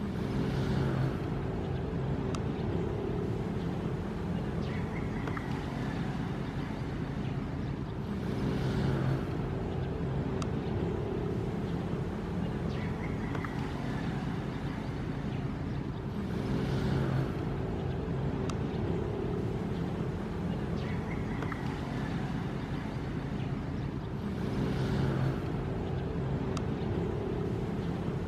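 Ocean waves washing in, swelling about every eight seconds over a steady low rumble.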